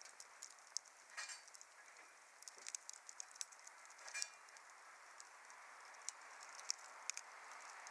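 Wood fire crackling: irregular sharp snaps and pops over a soft, steady hiss of burning wood, with a few louder pops about a second in, around four seconds in, and near the end.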